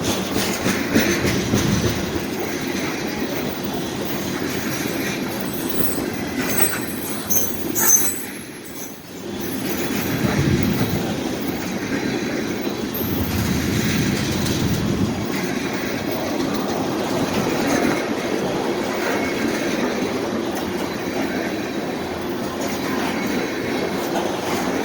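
Railway train passing close by, its wheels rolling steadily and clicking over the rail joints, with some high wheel squeal. A sharp loud bump about eight seconds in, after which the noise drops for a moment before the train sound returns.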